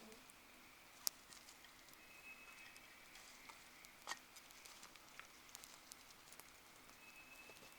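Wood fire crackling: scattered sharp pops and ticks over a faint hiss, the loudest pop about a second in and another about four seconds in.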